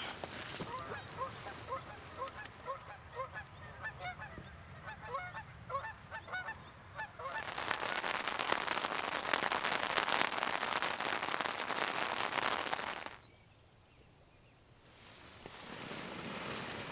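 A flock of geese honking, many short calls overlapping for about the first seven seconds. Then a louder steady rushing hiss takes over for several seconds and stops suddenly.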